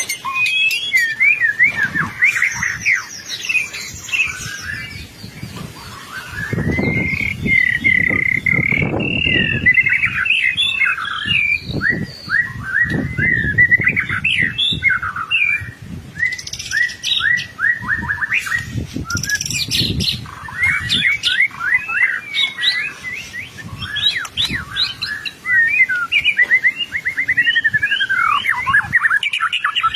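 White-rumped shama (murai batu) in continuous full song: a long, unbroken run of rapid, varied whistled phrases, trills and sweeping notes.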